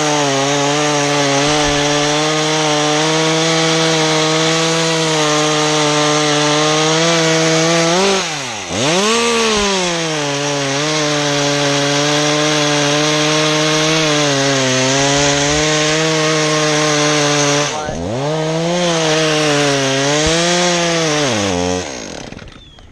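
Chainsaw running at full throttle, cutting a piece of pine off the spar. The throttle is eased briefly twice, then let off near the end.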